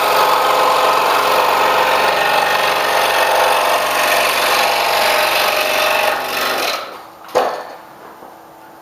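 Scroll saw running and cutting through wood, then winding down and stopping about two-thirds of the way through, followed by a single short knock.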